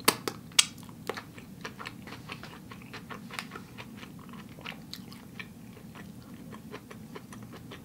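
Close-miked chewing of vegan sushi rolls: a steady run of soft, wet mouth clicks and smacks, with a couple of sharper clicks near the start.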